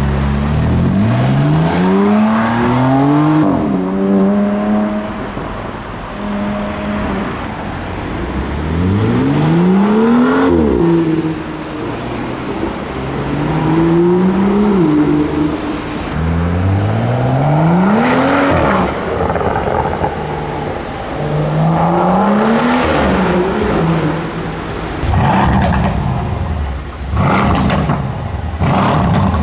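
Performance cars accelerating hard one after another, each engine note climbing steeply and dropping at the upshifts, about five runs in all. Near the end come several short, sharp engine revs.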